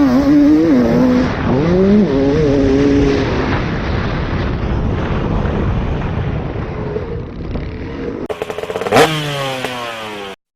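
Motocross dirt bike engines revving, the pitch rising and falling with the throttle, over a steady rush of engine and track noise. Near the end comes a sharp, loud hit followed by a falling pitch, then the sound cuts off abruptly.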